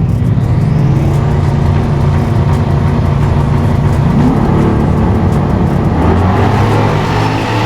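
Race truck engine running loud and steady under load, with a brief rise in revs about four seconds in.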